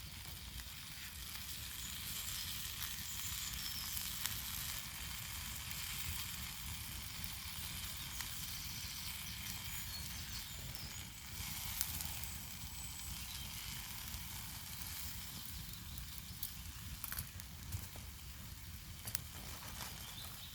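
Bacon, sausages and hash browns frying in a pan over a campfire: a steady sizzle, with a few sharp pops and crackles scattered through it.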